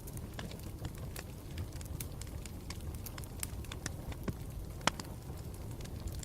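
Campfire burning, a steady low rumble of flames with irregular sharp crackles and pops, the loudest pop near the end.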